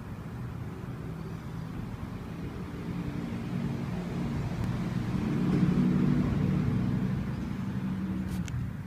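A motor vehicle's engine passing by, a low rumble that grows louder to a peak about six seconds in, then fades.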